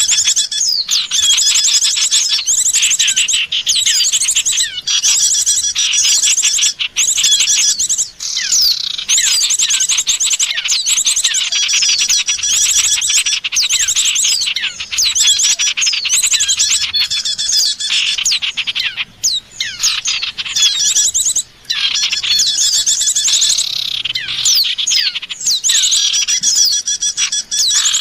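Small songbirds calling, played as a bird-lure recording: dense, rapid high-pitched chirps and trills, nearly continuous, with a couple of brief breaks about two-thirds of the way through.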